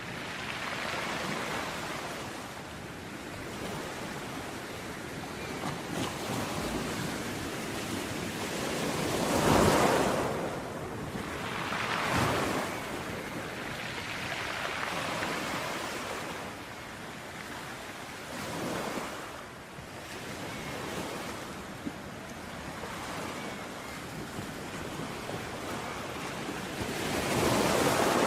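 Sea waves breaking and washing onto a beach, rising and falling in slow surges, with the loudest breaks about a third of the way in and again near the end.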